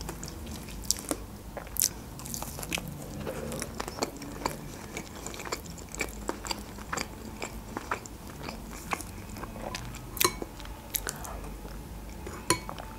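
Close-miked chewing of a shawarma wrap: soft wet mouth sounds with many short sharp clicks and smacks scattered throughout.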